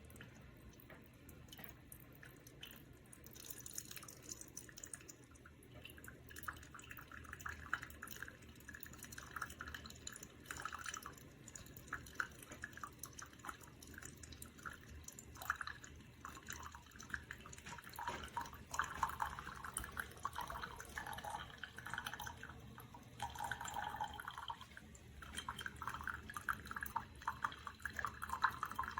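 Horavie Mini single-serve coffee maker brewing, coffee dripping and trickling into a cup. The sound starts faint and picks up about six seconds in, then comes and goes unevenly.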